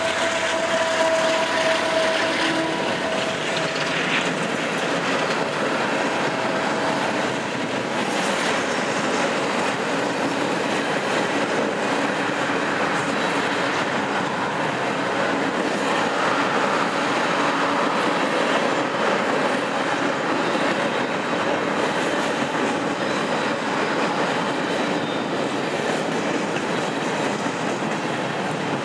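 A long train of empty steel coal cars rolling steadily past, with its mid-train CP AC4400CW diesel locomotive going by just below and pulling away. A thin steady whine sounds through the first several seconds.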